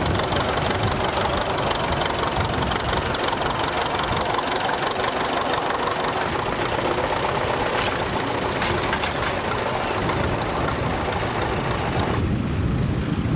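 Vintage tractor engine running steadily, a dense mechanical noise with strong low-end rumble. Near the end the high hiss drops away abruptly.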